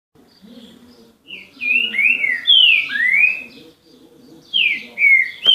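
Green-winged saltator (trinca-ferro) singing a 'grego'-style song: loud, clear whistled notes sliding down and up. One phrase of several notes starts about a second in, and a shorter phrase comes near the end.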